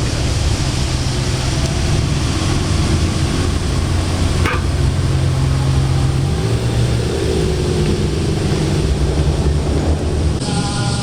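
Modified car's exhaust rumbling at low revs as it drives slowly past, with a shift in the engine note about six seconds in and a brief sharp click near the middle.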